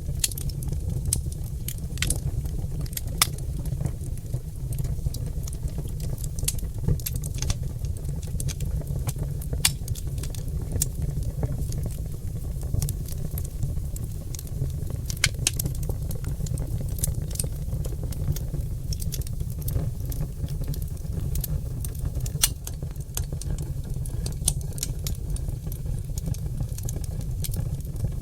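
Oak logs burning in a fireplace, crackling with irregular sharp pops scattered throughout over a steady low rumble.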